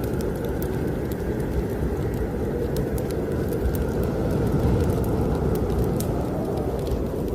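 Steady low roar of snowstorm wind, with scattered sharp crackles from a wood fire in a fireplace.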